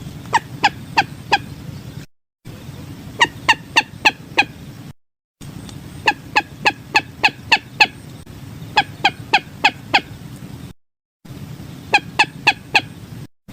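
Common moorhen calling in groups of four to seven short, sharp notes at about three a second, with brief dead-silent gaps between the groups where the looped lure recording is cut, over a low background hum.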